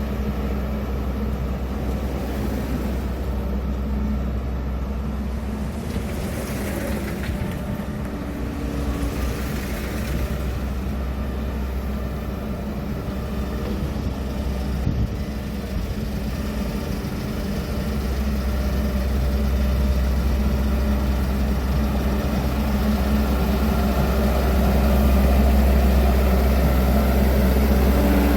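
Heavy construction-machine diesel engine running steadily with a low hum, getting louder about two-thirds of the way in.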